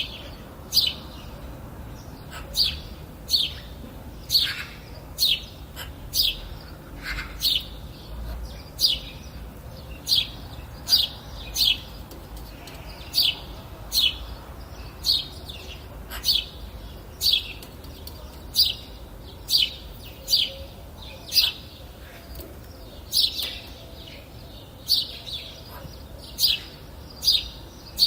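A bird calling over and over, short sharp chirps that fall in pitch, about one a second at an even pace.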